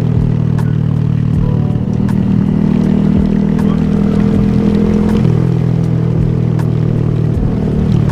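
Honda Grom motorcycle engine running under way, a steady buzzing note that changes pitch about two seconds in and again just after five seconds as the rider works the throttle and gears.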